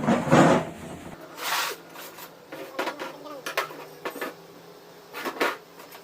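Scattered clicks, knocks and rubbing of hand tools and metal parts being handled while a car starter motor is taken apart, with a loud cluster of knocks at the start.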